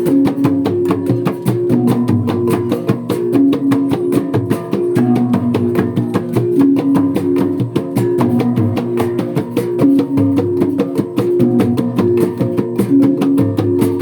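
Gong ensemble playing: tuned gongs ring a repeating melodic pattern over a rapid, steady beat of struck strokes.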